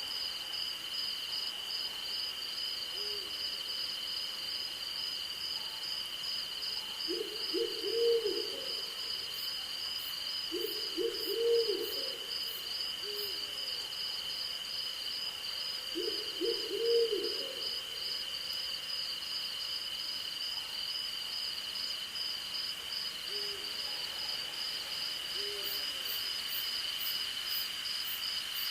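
Night insects chirring steadily at two high pitches, the upper one pulsing quickly, while an owl calls three times in short runs of low, rising-and-falling hoots, with a few fainter single hoots between.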